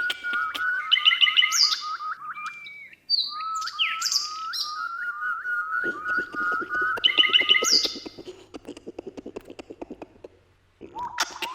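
Several wild birds singing and chirping together. One keeps up fast runs of short repeated notes while others add higher chirps and whistles over it. The song breaks off for a moment about three seconds in and thins out near the end before starting again.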